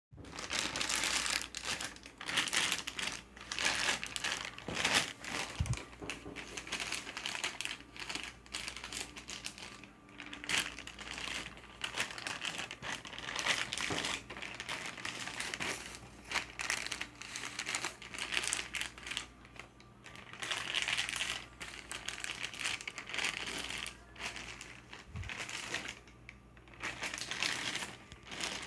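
Crinkling and crackling, as of something being crumpled or squeezed by hand, rising and falling in repeated swells with scattered sharp clicks.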